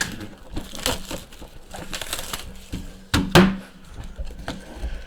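A cardboard trading-card box being handled and forced open, with scraping, crinkling and a few sharp knocks, the loudest about three seconds in.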